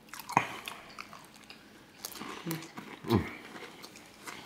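Close-miked eating sounds: chewing, biting and lip smacks on fried catfish and shrimp, as scattered short clicks. A little after three seconds comes one short, falling pitched sound, the loudest in the stretch.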